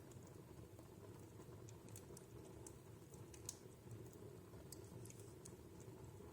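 Wood fire burning in a fireplace, faint: scattered sharp crackles and pops of the burning logs over a soft low rush of flame, with the loudest pop about three and a half seconds in.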